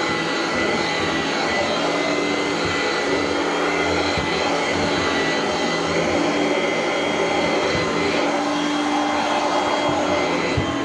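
Vacuum cleaner running steadily, a motor whine over a constant rush of suction, while it is worked over stairs; a few brief low knocks come through.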